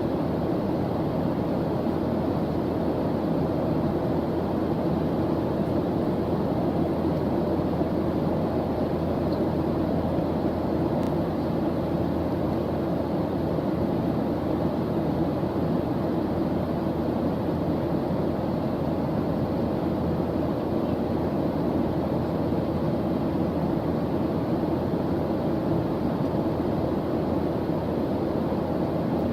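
Steady white-noise track: an even, unbroken rushing sound weighted toward the low end, like a deep rumble, with no change in level.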